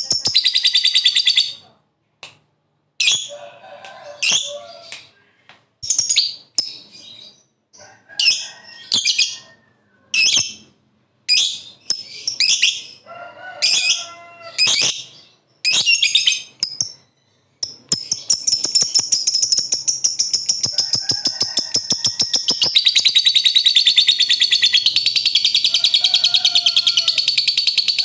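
Lovebird ngekek: a rapid, high, chattering trill. It comes in short bursts separated by silences at first, then from about two-thirds of the way in runs as one long unbroken trill (ngekek panjang).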